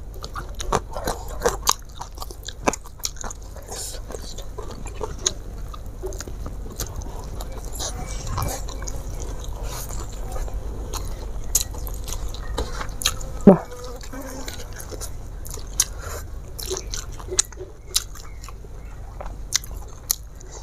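A person chewing food close to a clip-on microphone, eating with her hands, with scattered small clicks and crackles. One sharp knock about thirteen and a half seconds in is the loudest sound.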